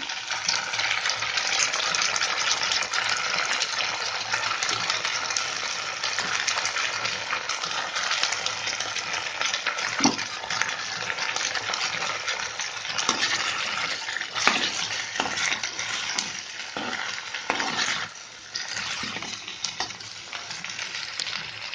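Chopped vegetables frying in hot oil in a clay pot, a steady sizzle. From about ten seconds in, a few knocks and scrapes of a metal ladle stirring them.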